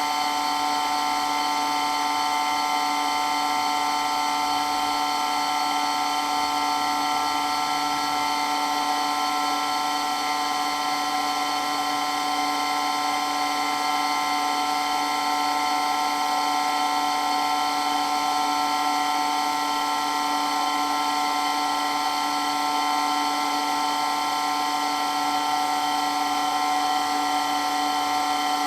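Water pump running steadily with a continuous high whine made of several fixed pitches that do not change.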